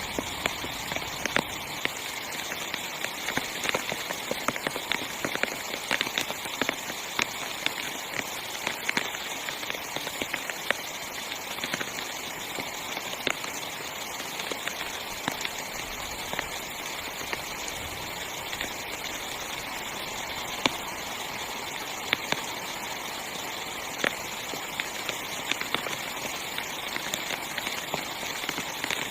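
Heavy rain falling on the fabric of a small tent: a steady hiss with many separate drops ticking sharply on the canvas.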